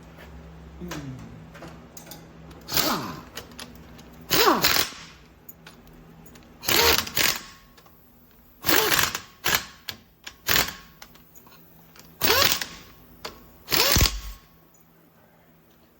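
Irregular metal knocks and clanks, about eight of them, some ringing briefly, from hand-tool work on a Land Rover 110 front hub assembly.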